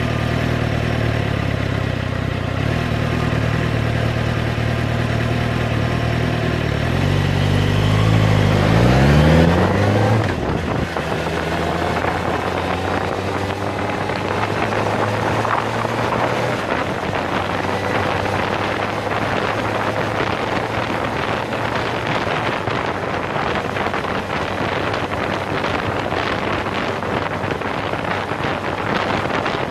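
Suzuki GSX-R600 motorcycle's inline-four engine running steadily at low revs, then revving up with a rising pitch for a few seconds as the bike accelerates. After that it runs on at road speed under a steady rush of wind noise on the microphone.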